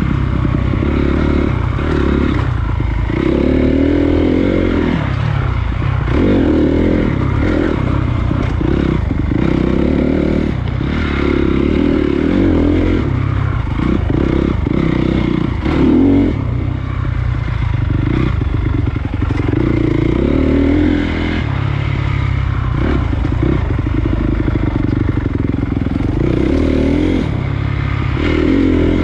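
Honda CRF250 dirt bike's single-cylinder four-stroke engine revving up and dropping back again and again while riding a rough trail, with knocks and rattles from the bike over the ground.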